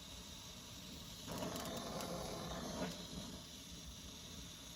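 Brazing torch flame hissing on refrigerator tubing, with a sudden louder rush a little over a second in that lasts about a second and a half.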